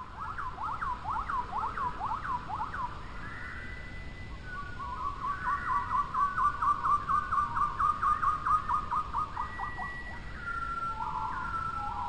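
A bird singing: quick whistled notes repeated a few times a second, breaking into a faster run of notes partway through, then longer held whistles near the end.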